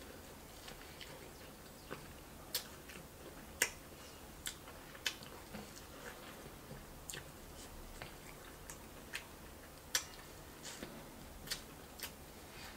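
Close-up biting and chewing of corn on the cob, with irregular sharp wet clicks of mouth and kernels roughly once a second.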